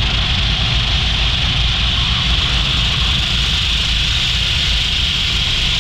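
Touch-free car wash's high-pressure water spray hitting the car, a steady loud hiss with a low rumble underneath, heard from inside the cabin.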